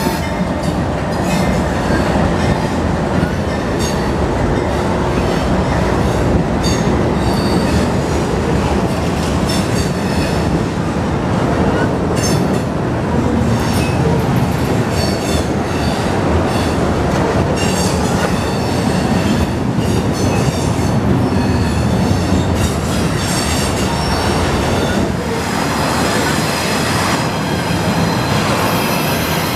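Norfolk Southern double-stack intermodal freight train passing at close range: a steady, loud rumble of container cars rolling on the rails, broken by repeated clicks and knocks of the wheels over the rail joints.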